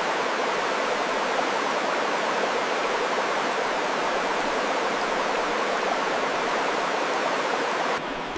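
Steady rushing noise of running water, even and unbroken, switching abruptly to a duller background just before the end.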